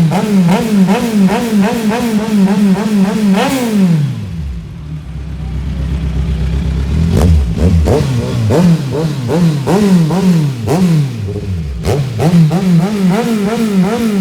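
Motorcycle engine being revved in quick throttle blips, the pitch jumping up and down several times a second. About four seconds in the revs fall away, and the blipping starts again from about seven seconds.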